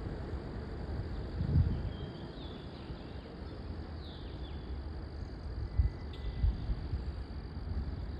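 Outdoor nature ambience: a steady low rumble with occasional deeper thumps, and a few faint, short high chirps from birds a couple of seconds in.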